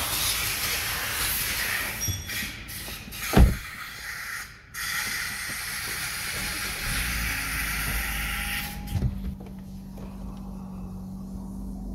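A steady hiss with a sharp knock about three seconds in. The hiss stops about nine seconds in, and the 2019 Suzuki Swift's engine then idles with a steady low hum.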